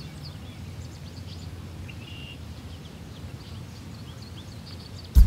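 Outdoor ambience: a steady low rumble with faint, short bird chirps scattered through it and a brief high whistle about two seconds in. Band music with drums cuts in right at the end.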